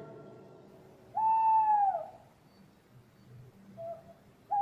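Owl hooting sound effect: one drawn-out hoot about a second in that slides down in pitch as it ends, a faint short note, then a second hoot starting near the end.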